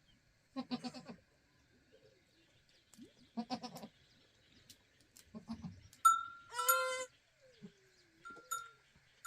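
Farm animals bleating: four wavering calls a couple of seconds apart, the last one higher and the loudest. Short bird chirps come in between them.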